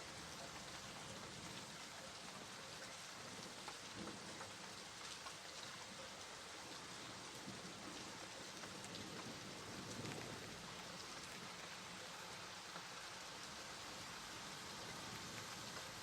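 Steady rain falling, an even patter with scattered individual drop ticks and a slight low swell about ten seconds in.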